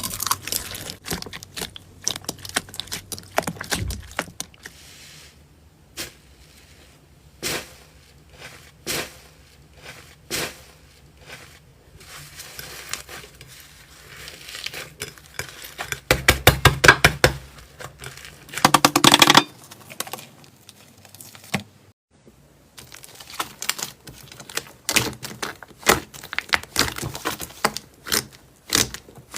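Crunchy slime being pressed, squeezed and poked by hand, with bursts of crisp crackling, popping and clicking in several separate passages. The densest, loudest crackling comes about two-thirds of the way through.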